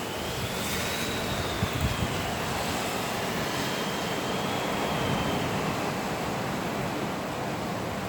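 Thunderstorm wind gusts and heavy rain as a steady loud rush of noise, with a faint high whistle that slowly rises and falls.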